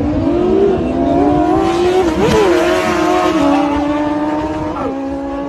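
Drift car's engine running at high revs, its pitch rising and falling as the throttle is worked through donuts, with a swell of tyre noise about two to three seconds in.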